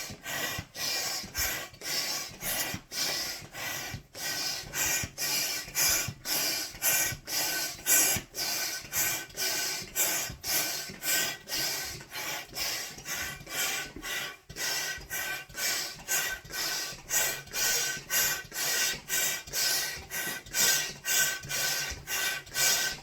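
Hand balloon pump worked at a steady two strokes a second, each stroke a hiss of air, inflating a 16-inch Cattex latex balloon.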